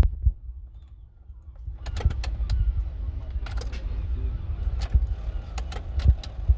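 Ford Transit van making irregular sharp clicks and knocks over a low steady rumble, the sign of a low battery.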